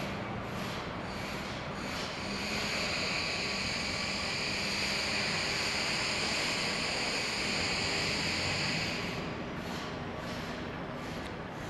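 Train passing with a steady high-pitched wheel squeal that rises in about two seconds, holds, and fades out about nine seconds in, over steady city noise.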